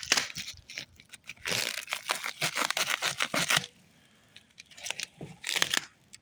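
Packaging being torn open and crinkled by hand, in rustling spells with sharp crackles: a long one from about one and a half seconds in, and a shorter one near the end.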